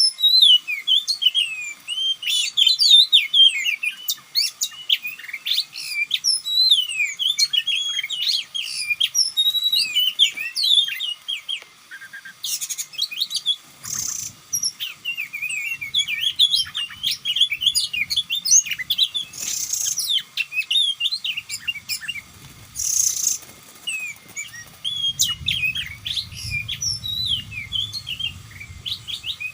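Oriental magpie-robin song: a dense, unbroken stream of quick, varied whistles and chirps. Several short hissy bursts cut through it, and a low rumble comes in near the end.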